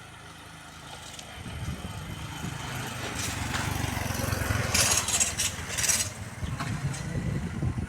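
A motor engine running and growing louder, like a vehicle drawing near. About five to six seconds in, bursts of high chattering come in over it.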